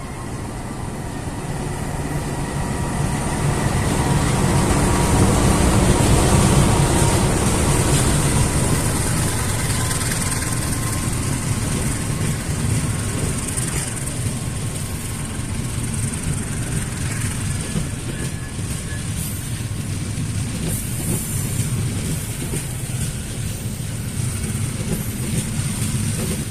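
Manahan passenger train running on the rails: a steady rumble and hiss that grows louder over the first several seconds and then holds even.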